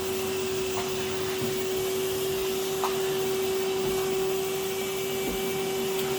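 Vacuum cleaner running steadily over carpet: a constant whirring hum with a few faint knocks.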